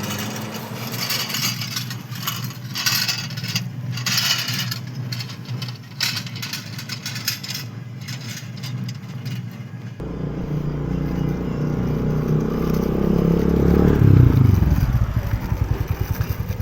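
Scraping and clattering for about ten seconds, then an abrupt change to a motor vehicle engine sound that grows louder and drops in pitch near the end.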